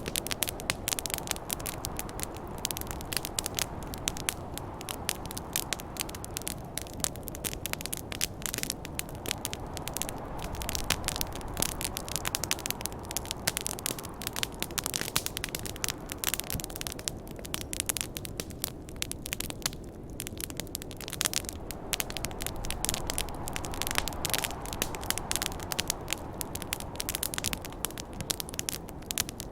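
Wood campfire crackling and popping in dense, irregular snaps over a steady low rush of snowstorm wind that swells and eases every several seconds.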